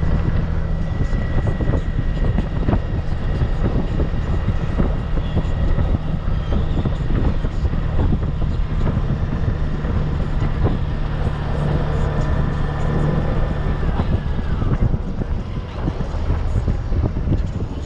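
Honda Gold Wing touring motorcycle's flat-six engine running steadily while riding, with wind buffeting the camera microphone.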